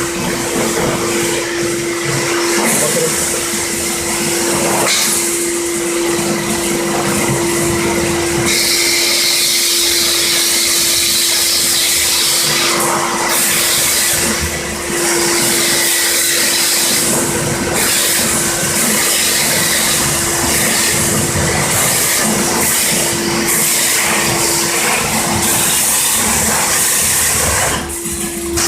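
High-pressure washer spraying an engine bay: a steady pump hum under a loud hiss of water that swells and fades as the jet moves across the engine.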